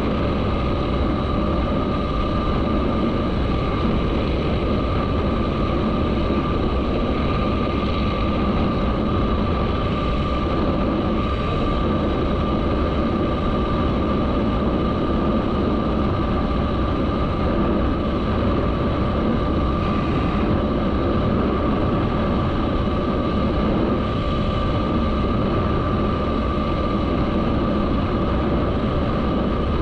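Motorcycle engine running steadily, with a constant hum and no change in pitch.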